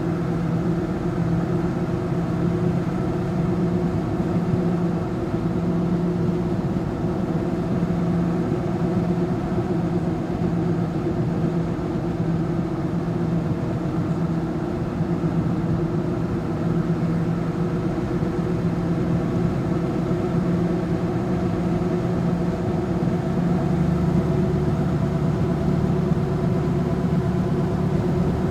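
Motor vehicle engine droning steadily under way, with road noise; the engine note gets louder and deeper near the end.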